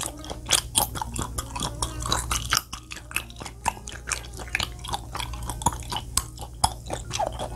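Close-miked chewing of a piece of raw chicken breast sashimi dipped in sesame-oil sauce: a dense, irregular run of small mouth clicks and smacks.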